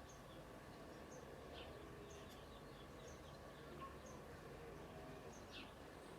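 Faint birds chirping: short, high, irregular chirps over a steady low background hum, the whole near silence.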